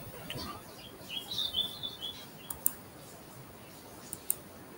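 A bird chirps a short run of high calls about a second in, faint against a quiet room. A few sharp computer-mouse clicks follow, the loudest sounds here.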